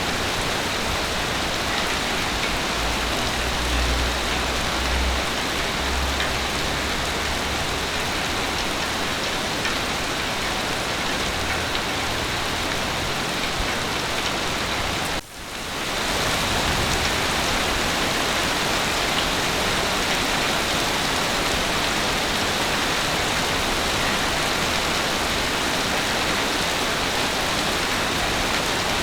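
Heavy rain falling steadily, with a low rumble a few seconds in. About halfway through the sound briefly cuts out and fades back in.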